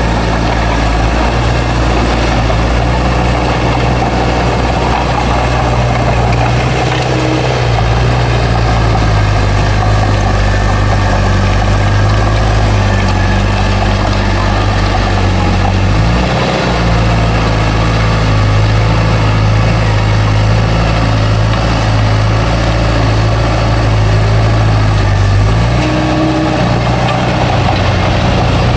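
Bulldozer's diesel engine running steadily, its pitch dipping and recovering as the load changes about a quarter of the way in, just past halfway and near the end.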